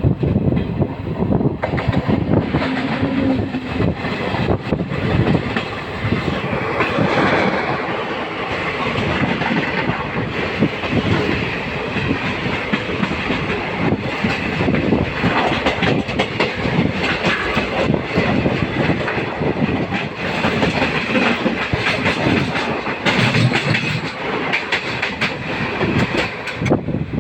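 Indian Railways LHB passenger coach running on the track: a steady loud rumble with dense, rapid wheel clatter over the rails.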